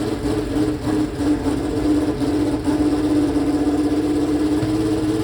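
Ferrari 639 Formula One car's V12 engine idling, its pitch holding steady throughout.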